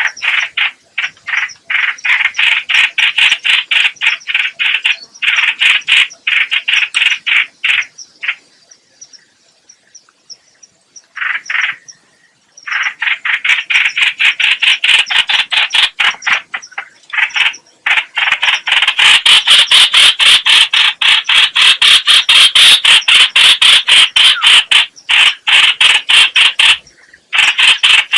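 Call of the trao trảo (chao chảo) bird, played as a trapping lure: long, fast runs of short repeated notes at several a second. The runs break off for a few seconds in the middle with one short burst, then resume denser and louder.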